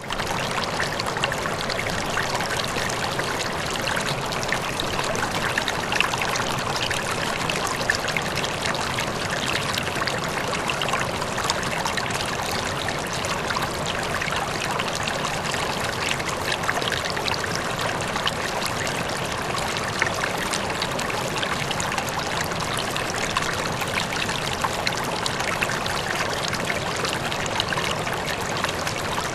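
River water flowing steadily, a constant rush of water with small splashes all through.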